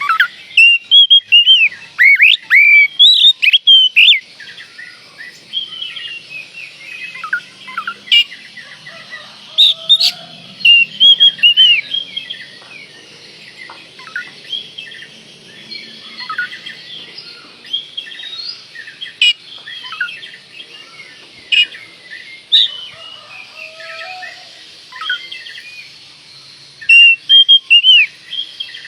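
Oriental magpie-robin (kacer) in full, vigorous song: loud, varied whistled phrases sliding up and down, delivered in bursts with shorter pauses between them, over fainter background chirping.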